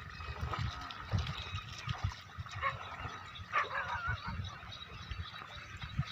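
Two short honking bird calls, about a second apart, over irregular low thuds.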